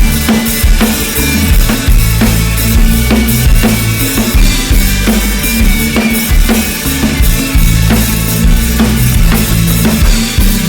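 Live band playing an instrumental passage: a drum kit keeping a steady beat of kick and snare over a bass line.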